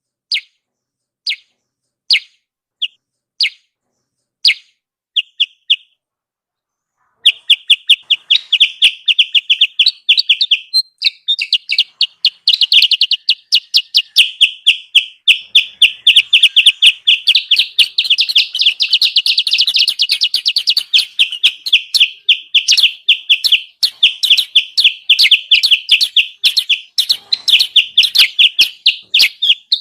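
Kutilang sutra lure call: single sharp chirps about a second apart, then from about seven seconds in a rapid, unbroken chattering run of high chirps. It is the recorded call used to draw wild kutilang sutra down to a trapping spot.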